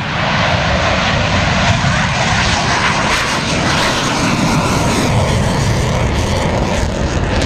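Airplane passing close overhead, a loud, steady engine noise that starts abruptly.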